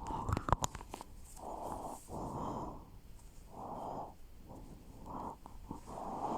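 Breathing close to the microphone: about six soft breaths, each around half a second long. A few sharp clicks of handling come in the first second.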